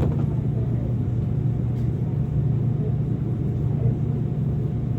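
Steady low rumble of a car driving, the even road and engine drone heard from inside a moving car.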